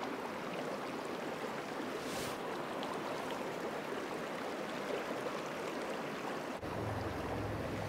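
Mountain creek water rushing steadily over rocks. About two-thirds of the way through, the sound changes abruptly and a low rumble joins the rush.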